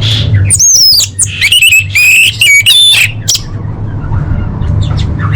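Orange-headed thrush singing a rapid run of varied whistled and warbled phrases with quick pitch sweeps for about three seconds, then a few quieter scattered notes, over a steady low hum.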